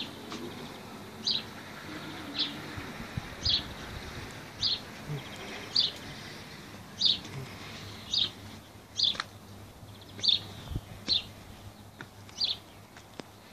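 A small bird repeating a single short, high chirp about once a second, over a faint steady outdoor background.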